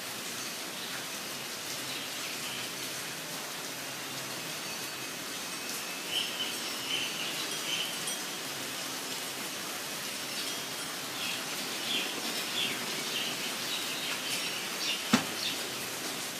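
Steady rain falling, with small birds chirping repeatedly from about six seconds in. A single sharp tap stands out near the end.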